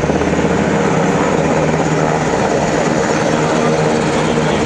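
Helicopter running loud and steady: rapid rotor-blade chop over a continuous engine drone.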